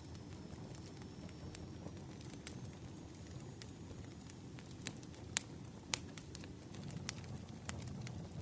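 Burning firewood crackling, with irregular sharp pops, two of them louder about halfway through, over a steady low rush.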